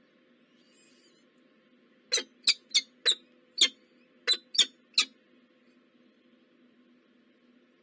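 Eight short, sharp, squeaky bird calls in quick, uneven succession over about three seconds, starting about two seconds in, over a faint steady hum.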